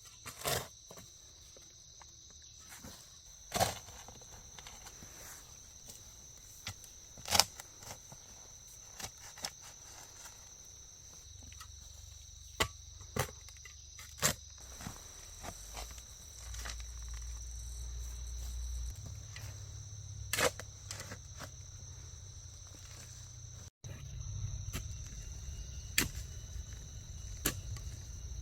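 Rainforest insects buzzing steadily at a high pitch, with sharp single knocks every few seconds, like a blade chopping bamboo. A low rumble joins about halfway through.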